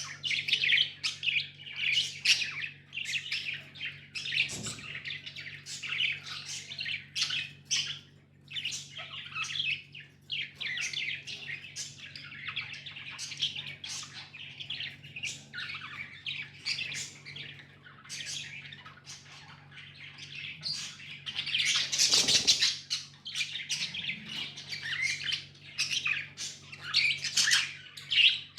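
Pet budgies chattering and chirping, a dense run of rapid short chirps and warbles with occasional squawks, louder for a moment a little past two-thirds of the way through. A faint steady low hum lies beneath.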